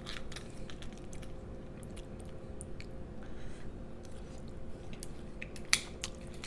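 Close-miked chewing and mouth noises from eating crab, with scattered soft clicks and one sharper click near the end. A steady low hum sits underneath.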